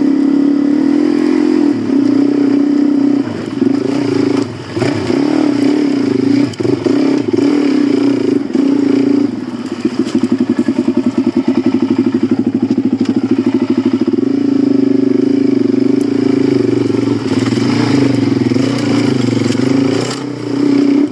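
Suzuki DR-Z400 dirt bike's single-cylinder four-stroke engine running as the bike is ridden off-road, its revs rising and falling. Midway it drops for a few seconds to a slow, even chug of separate firing pulses.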